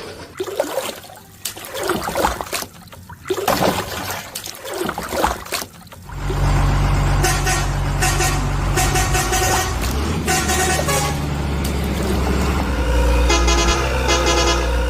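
Truck sound effects: a few seconds of irregular noisy bursts, then a steady low engine drone with horn honks sounding over it again and again.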